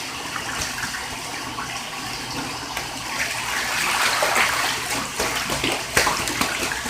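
Bathtub water splashing as a domestic goose bathes and plays in it. The splashing grows heavier from about three seconds in, with several sharp splashes near the end.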